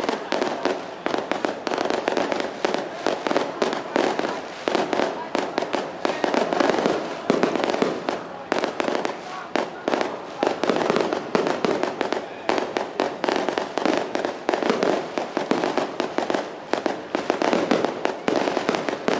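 Firecrackers going off in a dense, unbroken string of rapid bangs, with a steady din underneath.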